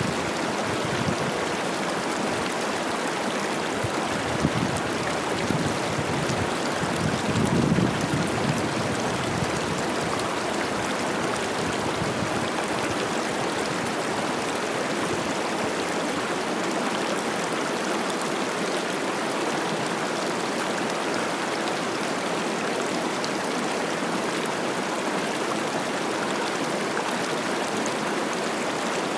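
Cache la Poudre River running high with spring snowmelt: a steady, even rush and babble of water over rocks. A few brief low swells rise in the rush between about four and eight seconds in.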